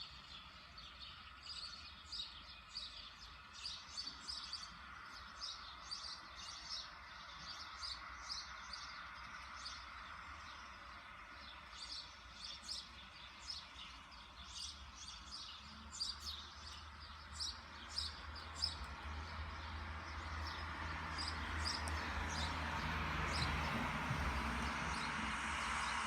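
Morning birdsong: many short, high chirps and calls from small songbirds, repeated throughout over a low background rumble. In the last several seconds a hiss of road traffic grows steadily louder.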